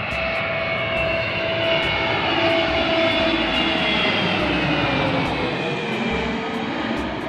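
Fixed-wing Air Force aircraft flying low overhead: loud engine noise with whining tones that slowly fall in pitch as it passes. The sound swells over the first couple of seconds and eases off toward the end.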